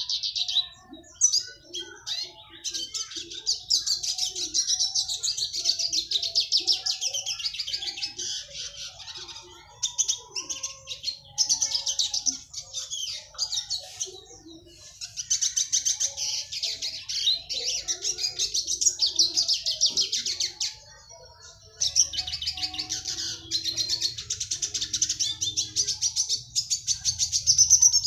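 Red siskin singing long, fast, dense twittering phrases, broken by a few brief pauses, notably about two-thirds of the way in.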